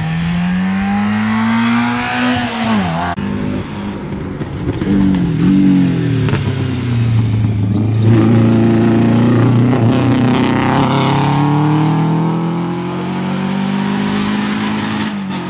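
Rally car engines driven hard past the spectators, the pitch climbing under acceleration and dropping with each lift or gear change. The sound breaks off abruptly about three seconds in and picks up on another car accelerating.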